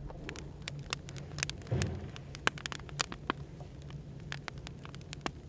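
Wood fire crackling with irregular sharp pops, over a steady low hum of café background noise. A dull thump about two seconds in.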